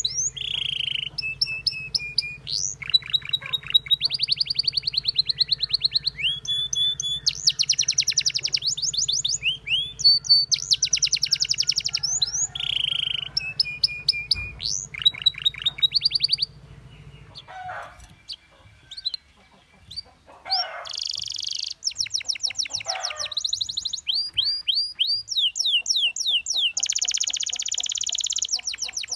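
Domestic canary singing a long, varied song of fast trills of repeated notes and short whistled phrases. The song thins and drops away for a few seconds about two-thirds of the way through, then picks up again with dense trills.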